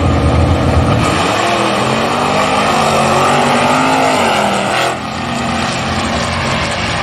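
Drag cars at full throttle down the quarter-mile, engine pitch rising for several seconds, then dropping sharply about five seconds in.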